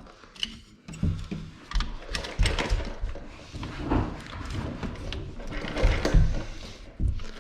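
Aluminum scaffolding parts rattling and knocking irregularly as a piece is wiggled into place, with low thuds among the clatter.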